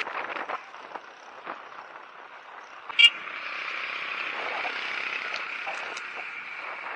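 Steady road and traffic noise heard from a moving bicycle, with one brief, sharp sound about three seconds in, after which the noise grows louder.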